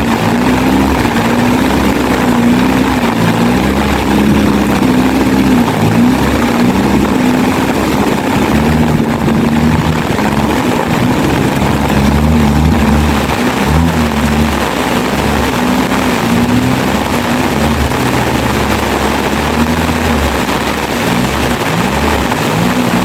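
A Suzuki 4x4's engine running steadily as it is driven off-road, its revs rising and falling unevenly throughout.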